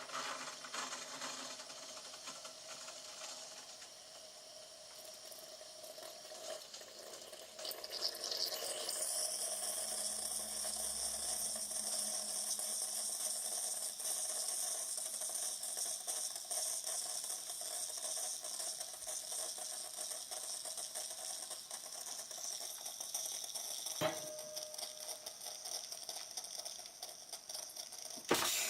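Bosch Tassimo Vivy pod coffee machine brewing: a steady mechanical pump noise with a high hiss of hot water and steam, building up about eight seconds in. There is a sharp click near the end.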